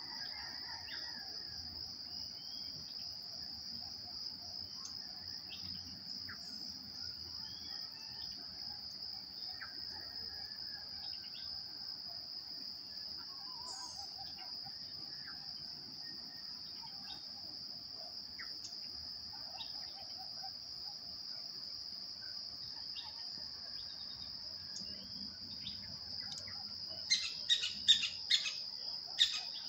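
Insects trilling in one steady, unbroken high tone, with faint scattered bird calls beneath it. Near the end, a quick cluster of loud, sharp sounds stands out above the trill.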